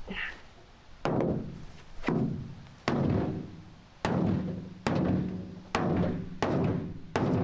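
A series of heavy percussive strikes, about one a second and coming slightly faster towards the end, each with a low ringing tone that fades away.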